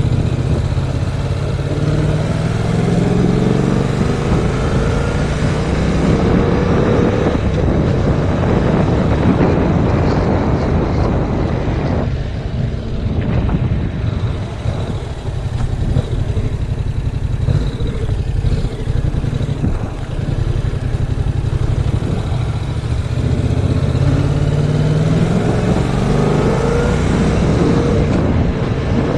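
Yamaha MT-07's 689 cc parallel-twin engine pulling on the road, rising in pitch as it accelerates in the first few seconds and again near the end, with a drop about twelve seconds in. Heavy wind noise buffets the action camera's microphone throughout.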